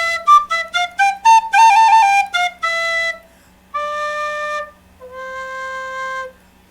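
Flute playing a quick phrase of short notes that climbs and falls, then two long held notes, the second one lower.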